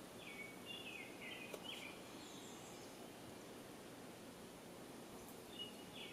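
A songbird singing in woodland: a quick run of falling notes lasting about a second and a half near the start, then the phrase again near the end, over a faint steady background hiss.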